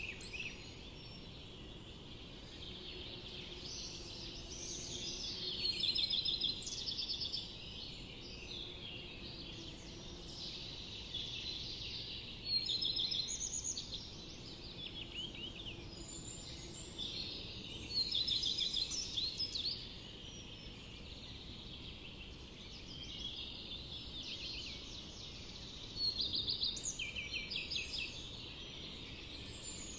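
Songbirds singing together in a dense, overlapping chorus of high chirps and fast trills. Louder trilled phrases stand out every five or six seconds over the steady background of song.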